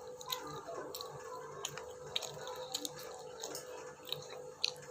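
Close-up chewing of sushi, with scattered short wet mouth clicks.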